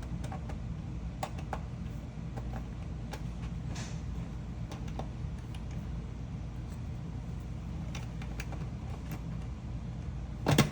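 Lego bricks being handled and pressed together: scattered small plastic clicks over a steady low background hum, with one louder knock near the end.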